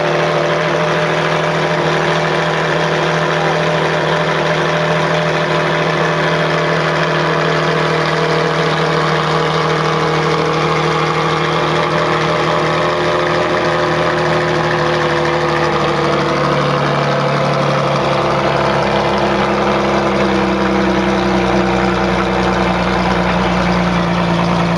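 Ferrari Enzo's V12 engine, breathing through a Tubi aftermarket exhaust, idling steadily, its note shifting about two-thirds of the way through.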